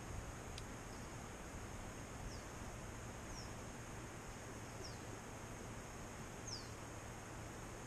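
Quiet outdoor background hiss with a faint steady high tone, and four short, high, falling bird chirps spread a second or so apart.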